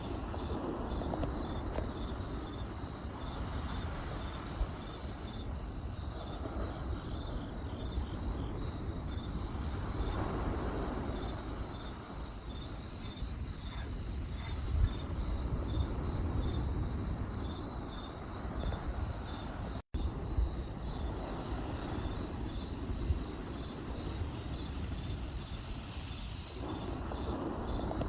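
Crickets chirping in a steady pulsing trill over a campfire's low rumbling burn, with a few sharp crackles and pops from the burning wood. The sound drops out for an instant about two-thirds of the way through.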